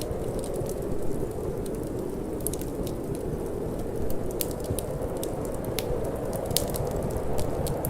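Wood fire in a fireplace crackling, with sharp irregular pops, over a steady low rush of wind.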